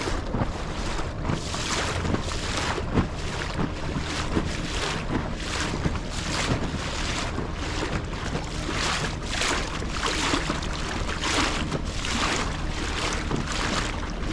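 A small boat running under motor with a steady low engine hum, water splashing against the hull over and over, and wind buffeting the microphone.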